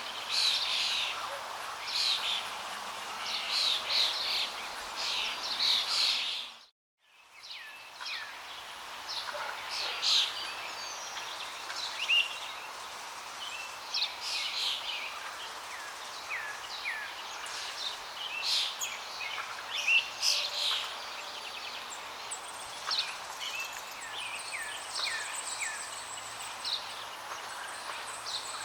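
Many small birds chirping and calling over the steady sound of flowing water. The whole sound cuts out to silence for about a second roughly seven seconds in, then resumes.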